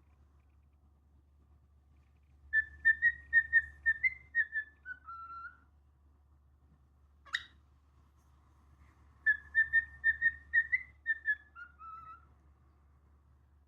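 Pet cockatiel whistling a short tune twice: a run of repeated notes that steps down in pitch at the end of each phrase. A single sharp chirp comes between the two phrases.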